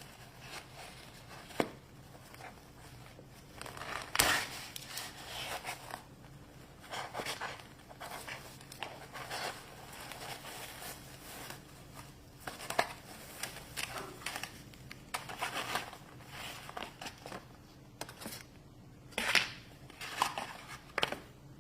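Toy packaging being opened by hand: plastic and foil wrappers crinkling and tearing in short, irregular bursts, with small clicks and taps.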